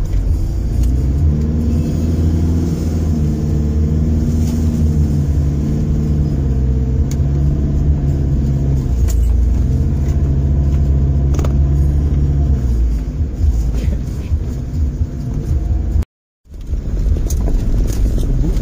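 Car engine working hard as it drives along a soft sand track, heard from inside the cabin as a heavy rumble. The engine note rises about a second in, holds, drops, climbs again and falls away, and the sound cuts out for a moment near the end.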